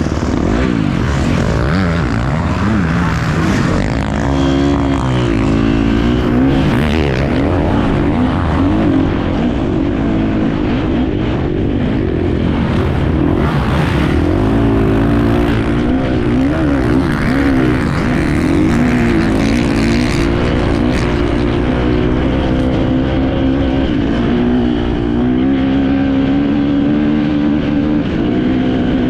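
Enduro motorcycle engine heard on board, its pitch rising and falling again and again as the rider works the throttle, with steady wind and riding noise around it.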